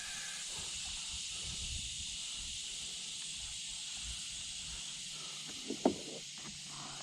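Steady high-pitched hiss with a faint low rumble beneath it, and one short sharp squeak about six seconds in.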